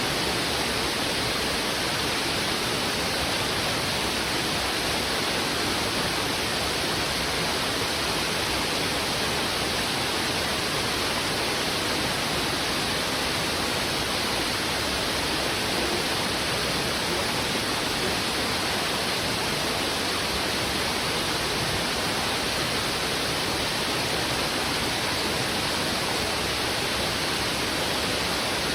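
Steady rush of heavy river water flowing fast over rocks: an even, unbroken hiss with no single splashes or other sounds standing out.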